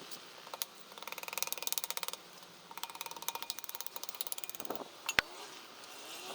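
A hand ratchet wrench clicking fast in two runs, the pawl ticking quickly as the handle swings back. A single sharp metallic knock just after five seconds in.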